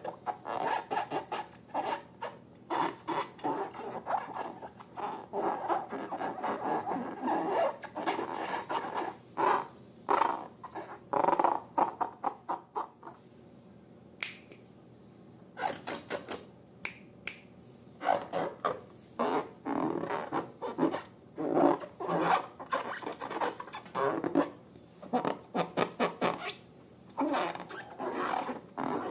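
Slime being handled: irregular squishing and rubbing sounds in quick succession, with a pause of a couple of seconds about halfway through.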